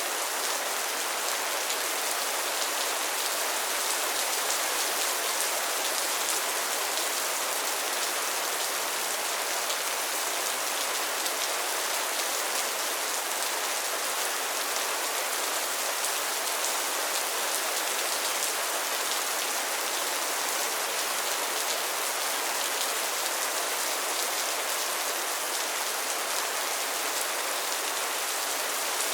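Steady rain falling on a pond's water and lily pads: an even hiss of many fine drop patters.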